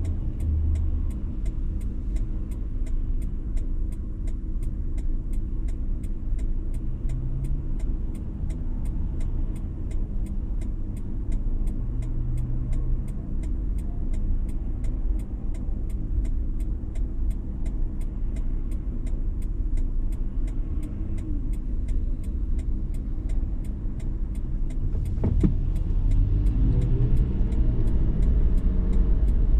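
A 2019 Toyota 4Runner TRD Pro driving, with a steady low rumble of road and engine noise. One sharp click comes late on, and after it the rumble grows louder.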